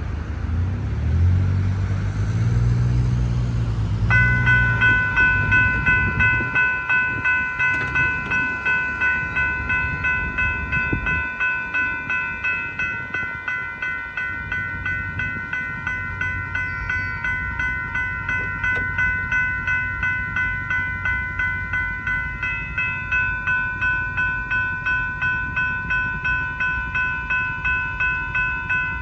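Railroad crossing warning bell starting to ring about four seconds in, a rapid even ding repeated two to three times a second and continuing. A deep engine rumble is heard at the start and fades away about eleven seconds in.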